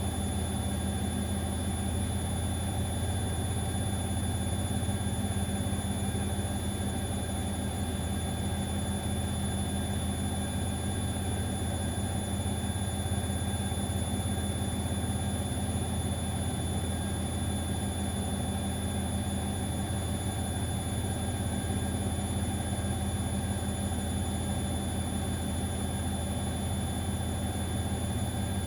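Siemens XLS 140 A front-loading washing machine running: a steady motor hum with a thin, constant high-pitched whine over it, unchanging throughout.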